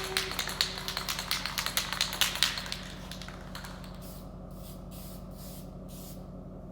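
Aerosol spray paint can spraying in many short hissing bursts, close and quick at first, then fainter and spaced about two a second.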